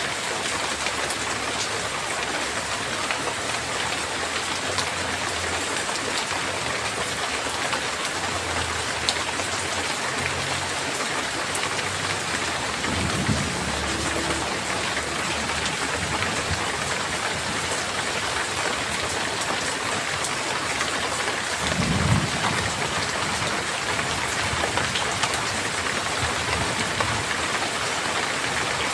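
Heavy rain falling steadily in a dense, even hiss, with two short low thunder rumbles, one a little before the middle and a louder one about three quarters of the way through.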